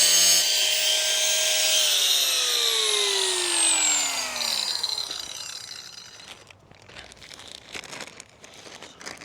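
Handheld power tool with a high, steady motor whine and a hiss of cutting through a plastic bucket; about two seconds in the motor is released and winds down, its pitch falling steadily for a couple of seconds. Quieter clicks and rustling of the bucket being handled follow.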